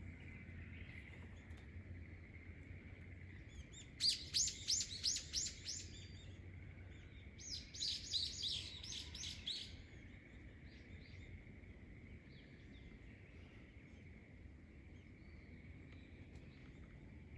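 A songbird singing two phrases, each a quick run of about half a dozen sharp down-slurred whistled notes, with a pause of a second or two between them.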